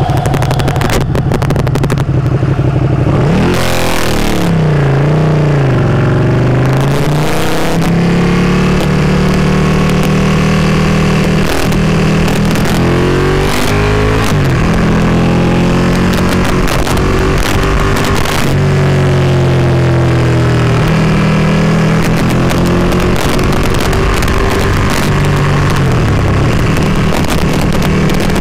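Motorcycle engine heard from the rider's seat while climbing a winding road, revs rising and falling repeatedly with throttle and gear changes, over a steady rush of wind noise.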